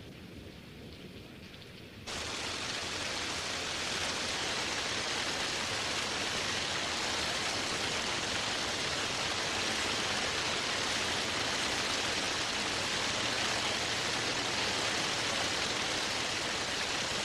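Heavy tropical rain falling steadily. About two seconds in it switches abruptly to a louder, denser downpour.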